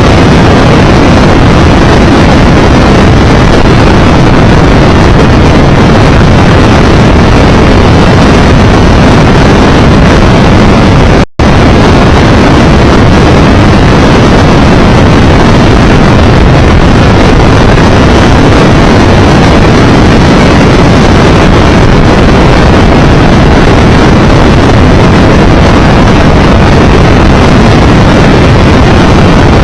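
Wind rushing loudly and steadily over the microphone of a Triumph Tiger Explorer 1200 motorcycle riding at road speed, with engine and road noise under it. The sound cuts out for a split second about eleven seconds in.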